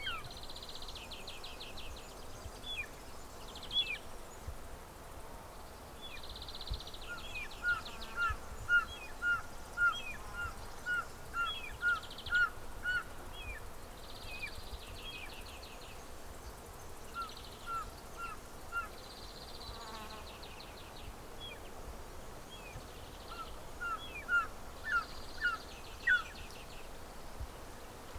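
Birdsong ambience: runs of short whistled notes, about ten in quick succession, repeat three times. Scattered higher chirps and short buzzy trills recur throughout over a steady background hiss.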